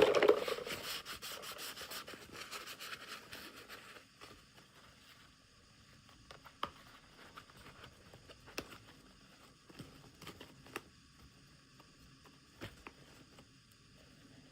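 Packaging being handled and opened: a burst of crinkling, rubbing and rustling for about four seconds that dies away, then scattered small taps and clicks.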